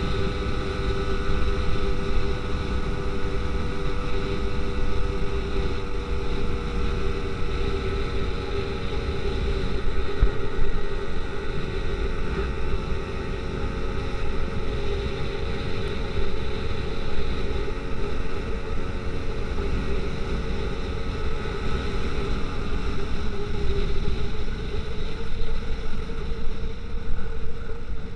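BT100 100cc two-stroke bicycle engine running steadily as the motorized bicycle is ridden, with wind rumbling on the microphone.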